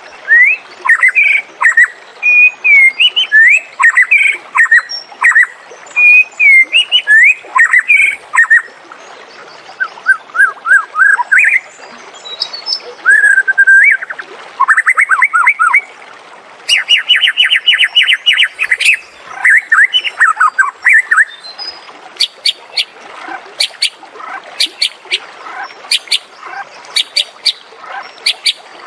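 White-rumped shama singing a long, varied song of short whistled, swooping phrases, with a run of fast repeated notes past the middle and sharp, clipped notes near the end.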